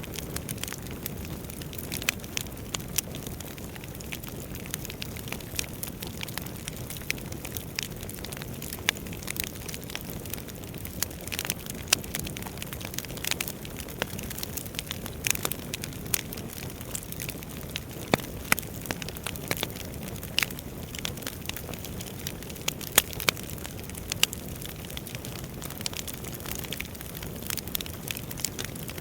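Wood fire burning in a fireplace: a steady low rush of flames under many irregular sharp crackles and pops, several a second, with a few louder snaps.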